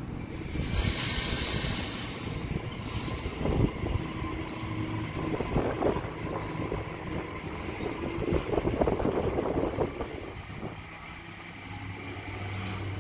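Sydney Trains double-deck electric train running past: wheels rumbling and clacking on the rails, with a loud hiss for about two seconds near the start. The noise dies down near the end as the train clears.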